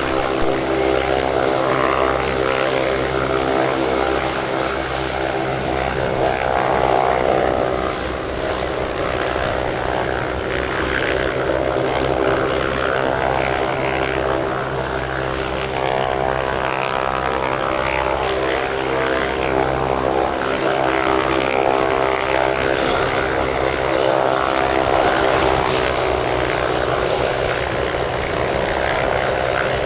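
Hawker 850XP business jet's twin Honeywell TFE731 turbofans at takeoff power during the takeoff roll and climb-out. It is a loud, steady engine sound made of many buzzing tones, with slow swells in loudness.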